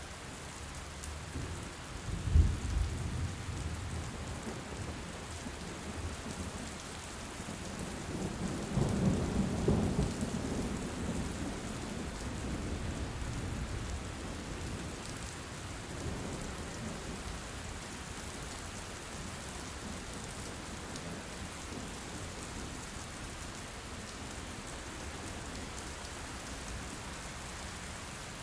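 Steady heavy rain hissing, with thunder: a sharp crack about two seconds in, then a longer rolling rumble a few seconds later and a fainter one after.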